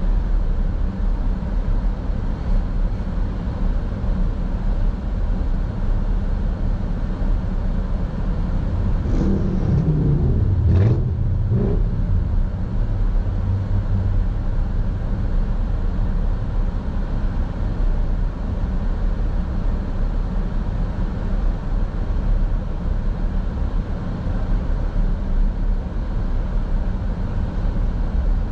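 Steady low rumble of a car driving, tyre and engine noise as picked up by a dashcam in the cabin. About ten seconds in, a short engine note swells and falls, with a few light knocks.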